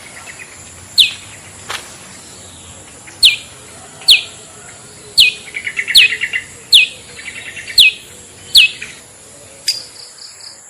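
Long-tailed shrike (cendet/pentet) calling in a lure recording. It gives a string of sharp, downward-sweeping 'toet' whistles about once a second, several followed by a quick stuttering chatter, over a steady high-pitched background tone.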